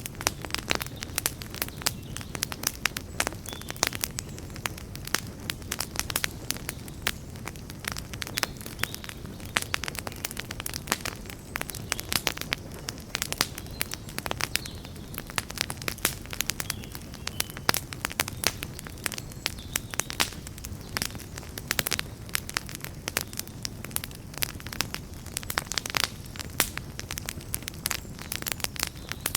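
Campfire burning, with dense, irregular crackling and popping over a low, steady rumble.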